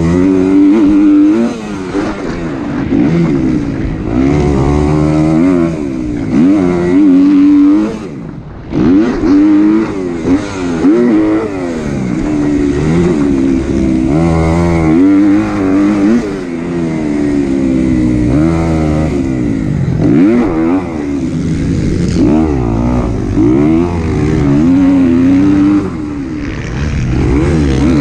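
Kawasaki KX250 four-stroke motocross engine revving up and down again and again as the bike is raced, the pitch climbing and falling with the throttle and gear changes. The throttle is shut off briefly about eight seconds in.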